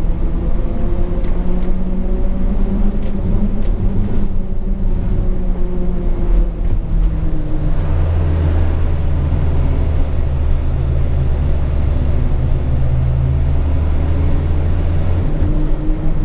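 Hino 500 FM 260 JD truck's diesel engine running under way, heard from inside the cab. A deeper steady drone comes in about eight seconds in and fades a second before the end.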